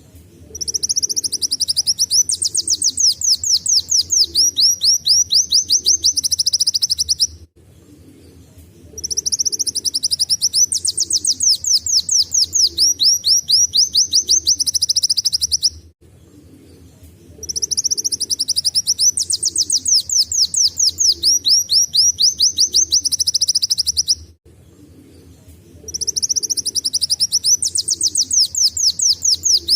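Kolibri wulung sunbird singing a canary-like song: four bursts of about seven seconds each, every one a fast run of high, sharply falling notes, with short pauses between.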